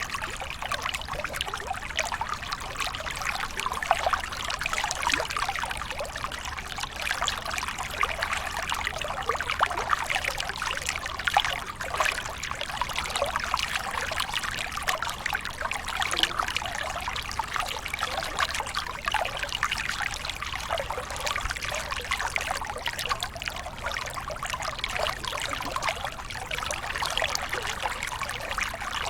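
Small waterfall: water pouring and splashing steadily, a dense even rush with many small splashes in it and little deep rumble.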